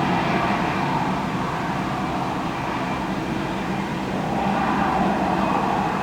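Airbus A320-214's CFM56 jet engines running with a steady roar that swells slightly about four seconds in.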